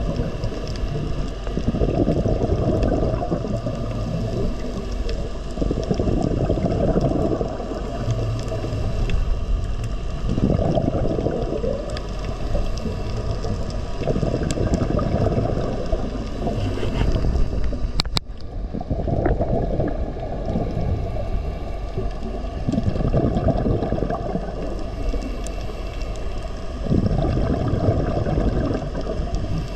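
Water gurgling and rushing in low surges that swell every few seconds, with a sharp click about eighteen seconds in.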